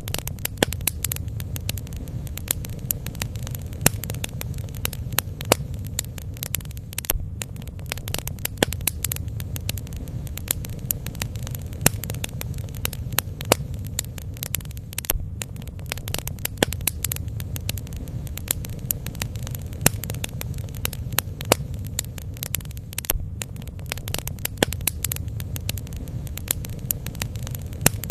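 Bonfire burning: frequent, irregular sharp pops and crackles over a steady low rumble.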